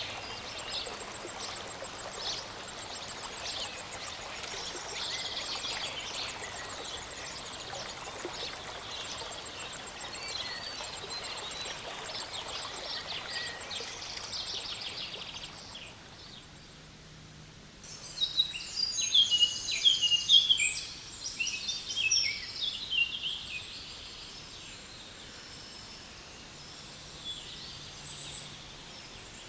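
Several birds chirping and singing over the steady rush of a small mountain stream or waterfall. A little past the middle the sound dips for a couple of seconds, then a nearer bird sings a loud run of rapid chirps for several seconds before the chorus settles back.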